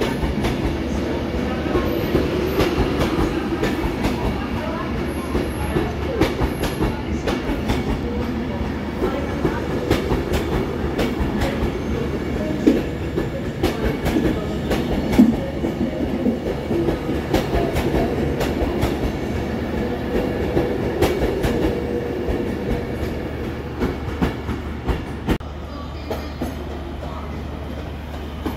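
Avanti West Coast Class 390 Pendolino electric train running along the platform, its wheels clicking irregularly over rail joints over a steady hum. The clicking thins out near the end.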